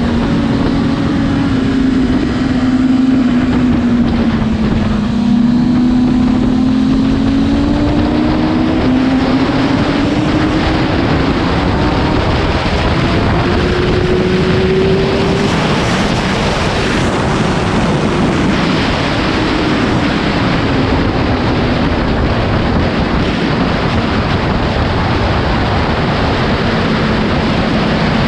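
Motorcycle engine running hard under heavy wind noise. Its pitch sinks over the first few seconds, climbs steadily until about halfway, then drops again and levels off.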